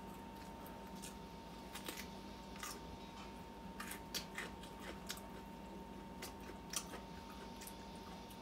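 Eating sounds of pork humba being eaten by hand off the bone: scattered short lip smacks and chewing clicks, over a faint steady hum.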